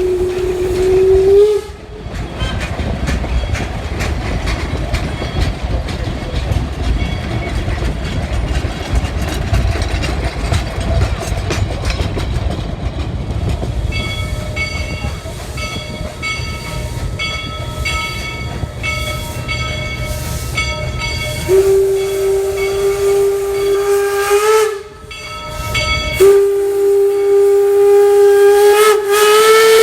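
Steam locomotive Georgetown Loop 2-6-2 No. 12 sounding its steam whistle. A blast cut off about a second and a half in gives way to the heavy rumble and hiss of the engine working past. Two more long whistle blasts follow in the second half, each bending up slightly in pitch as it ends.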